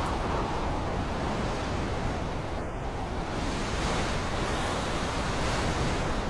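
Steady rushing wind, an even noise with no distinct events.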